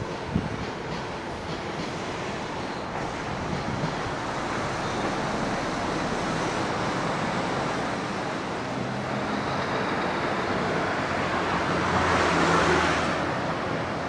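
Electric train running away along the line, its sound fading into a steady rushing background noise. A broad rushing swell rises and dies away near the end.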